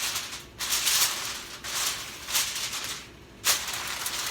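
Heavy-duty aluminium foil crinkling as it is handled and pressed down over a baking pan, in several rustling bursts with a short pause about three seconds in.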